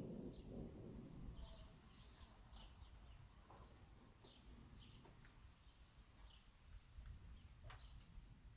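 Faint birds chirping, many short calls repeating through, over a low rumble of distant thunder that dies away in the first second or so.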